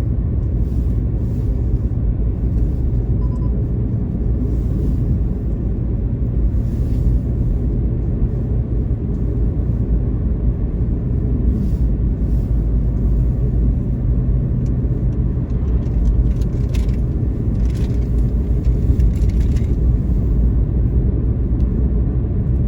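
Steady low road and engine rumble of a car being driven, heard inside the cabin.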